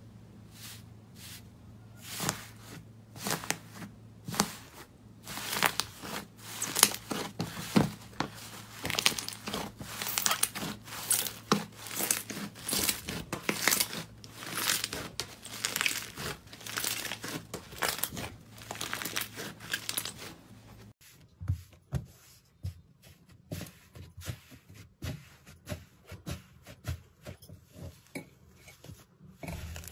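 Crunchy slime being squeezed and pressed by hand, giving dense runs of crackling, popping clicks. About twenty seconds in, the crackling turns quieter and sparser, with sharper separate clicks.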